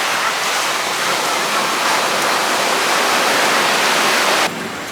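Steady rush of ocean surf breaking on a beach, with no pitch to it. It cuts off abruptly about four and a half seconds in.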